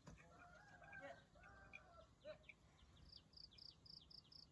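Faint bird calls: a drawn-out call in the first second, then a quick run of short high chirps, about six a second, in the last second and a half.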